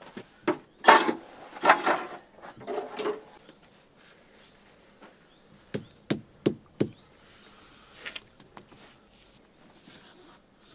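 Bricks being handled and laid in clay mortar: scraping and grinding of brick on brick and mortar, then four sharp knocks in quick succession.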